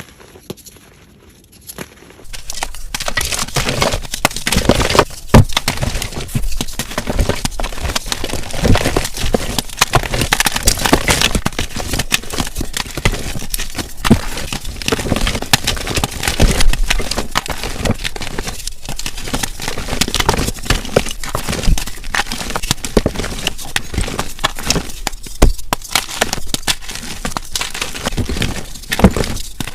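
Blocks of gym chalk being crushed and crumbled, a dense run of crunchy crackles and snaps that starts about two seconds in after a quiet opening.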